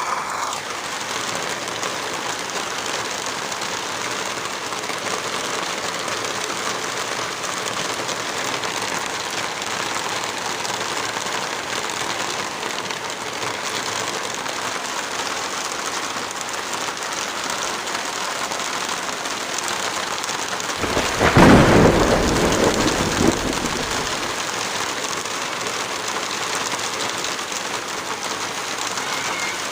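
Heavy rain falling steadily, a dense even hiss. About three-quarters of the way through, a deep rumble swells for about three seconds, louder than the rain.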